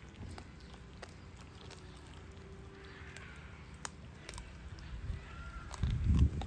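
Lion cubs chewing and biting raw chicken, with scattered short crunching clicks. A louder low rumble comes near the end.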